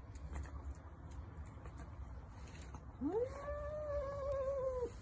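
A domestic cat giving one long, drawn-out meow about three seconds in: it rises quickly, holds its pitch with a slight waver for nearly two seconds, then stops abruptly.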